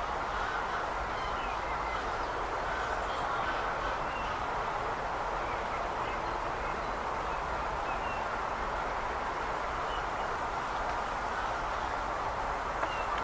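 Faint, scattered short bird chirps over a steady background noise outdoors.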